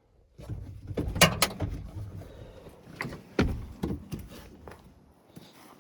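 Pickup truck cab door being handled, with rustling movement: two sharp clicks about a second in and another clunk about three and a half seconds in.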